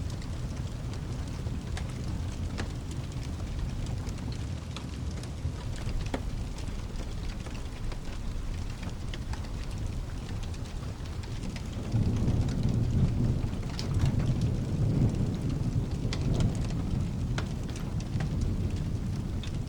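Steady rain over a low rumble, with scattered sharp ticks. About two-thirds of the way in, a peal of thunder rolls in and rumbles for several seconds.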